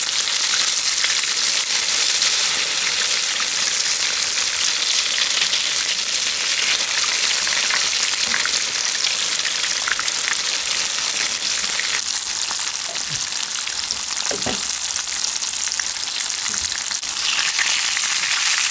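Egg-battered cod fillets sizzling steadily as they shallow-fry in plenty of hot oil in a frying pan, cooked almost like deep-frying so the coating turns crisp.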